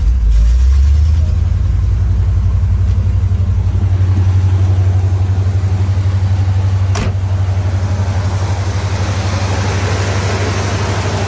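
Built 350 small-block V8 with headers and a mild performance cam, running steadily just after a cold start, with an even low pulsing. A single sharp click about seven seconds in.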